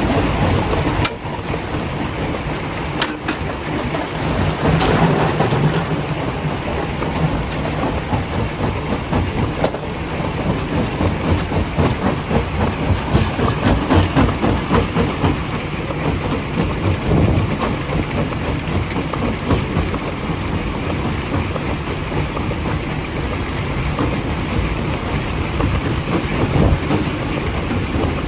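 Primary jaw crusher crushing rock: a continuous heavy rumble and rattle of stone being broken, with a few sharp knocks.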